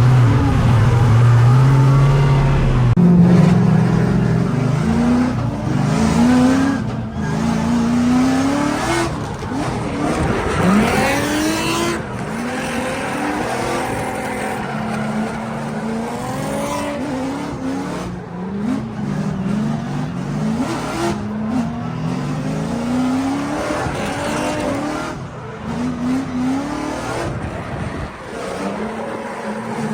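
Drift car engine revving up and down again and again through a drift run, the pitch climbing and dropping every second or two, with tyre squeal.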